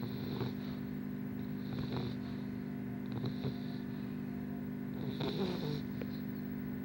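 English bulldog snoring in its sleep, a raspy snore on each breath about every second and a half to two seconds, over a steady low hum.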